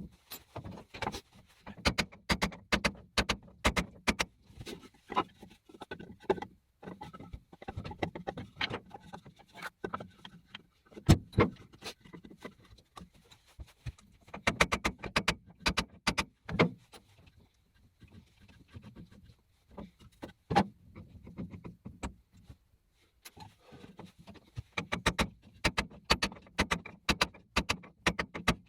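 Clusters of irregular metallic clicks and clanks, as of tools and metal parts being handled at a lathe, with one louder knock about eleven seconds in.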